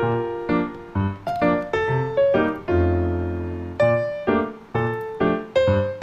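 Background music: a piano playing a run of struck notes, with a held chord about three seconds in.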